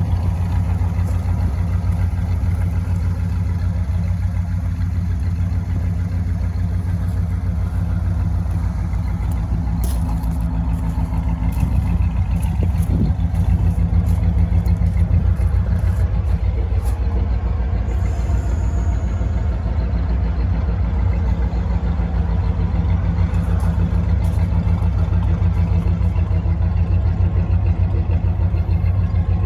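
1956 Ford Thunderbird's 312 cubic-inch Y-block V8 with a four-barrel carburettor running steadily, a deep even engine note.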